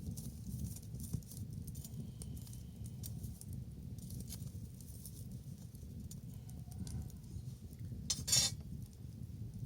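Wood bonfire crackling, with many small scattered pops over a low steady rumble. About eight seconds in there is one louder, noisier burst lasting under half a second.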